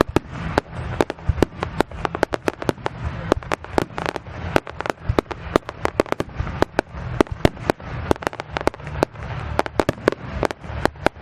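Fireworks going off in a rapid barrage of sharp bangs and pops, about four or five a second without a break.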